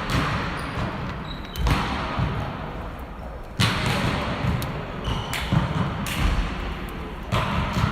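Volleyball being struck and hitting a hard gym floor: several sharp hits a second or two apart, each followed by a long echo in the hall.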